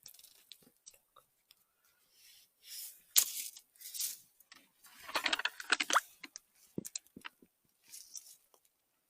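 Dry forest litter and twigs crunching and rustling in irregular bursts, with a sharp crack about three seconds in and a denser stretch of crackling from about five to six seconds.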